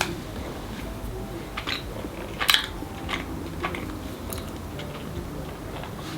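Someone biting and chewing nut-topped Easter cake: a scatter of short, sharp crackles over a low background, the loudest about two and a half seconds in.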